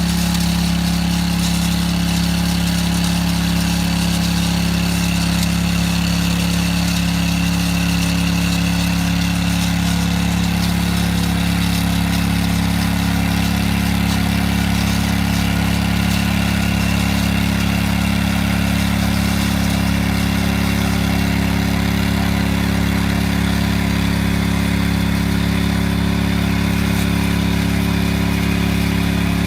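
An engine running steadily at one constant speed, a loud even drone that does not rev up or down.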